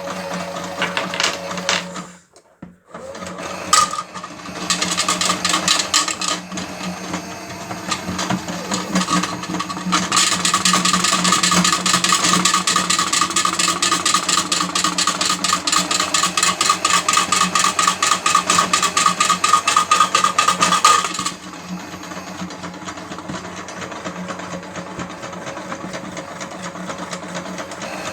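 Battery-powered Miele W1 toy washing machine running its drum anti-clockwise: a small electric motor's steady whirr with a rapid rattle. It cuts out briefly about two seconds in, restarts, runs louder with a dense rattle from about ten seconds in, and drops back to a quieter whirr a little past twenty seconds in.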